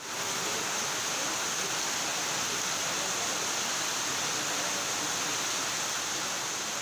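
Heavy rain falling in a steady hiss, fading in at the very start.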